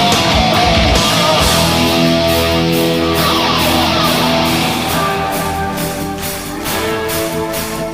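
Heavy metal band playing live: an instrumental passage of electric guitars over bass and drums, with a regular cymbal beat from about five seconds in.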